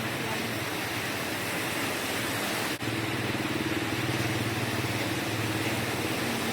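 A motor vehicle engine idling with a steady hum over a steady hiss of rain. The sound drops out for a moment about three seconds in.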